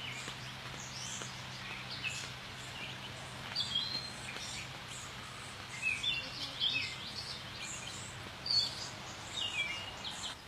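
Several songbirds chirping and calling in quick short notes, over a faint steady low hum.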